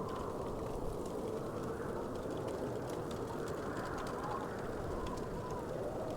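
Wood fire crackling softly: scattered faint pops and ticks over a steady low rumble.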